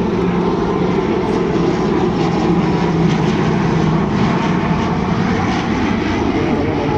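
Jet airliner's engines running, a loud steady rumble that holds level throughout.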